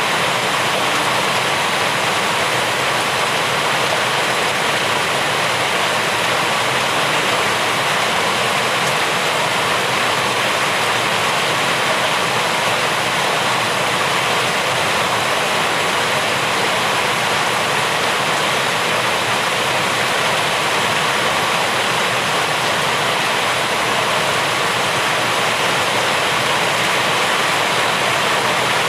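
Steady rain falling, an even unbroken hiss with no individual drops or thunder standing out.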